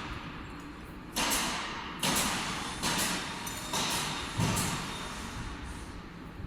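Machine shop noise: a series of five sudden, hiss-like bursts, each fading within about half a second, over a steady low rumble.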